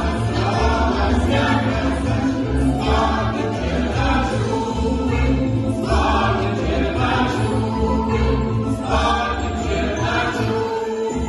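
A Cossack song ensemble singing together in chorus, over accompaniment with a regular pulsing bass line.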